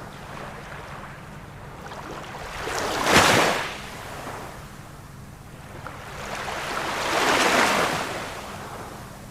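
Ocean waves breaking and washing on the shore. One wave crashes sharply about three seconds in, and a longer, slower wave swells and falls away near the end.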